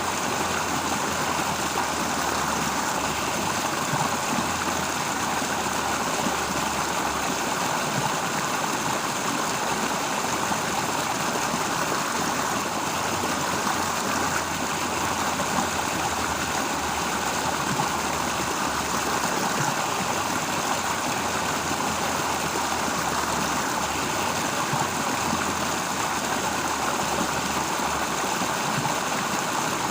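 Flowing stream: a steady, unbroken rush of water with no distinct events.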